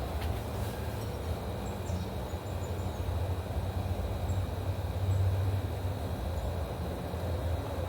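A few faint, short chirps from small songbirds at a feeder, over a steady low rumble that is the loudest sound.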